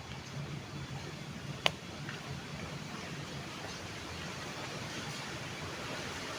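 Steady rushing of flowing stream water, with one sharp click about a second and a half in.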